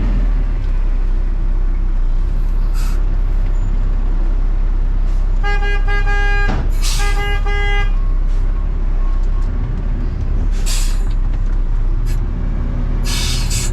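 Garbage truck's horn sounding two beeps, each about a second long, a signal that the truck is there to collect any more garbage. Under it the truck's engine runs steadily, with short hisses of air near the end.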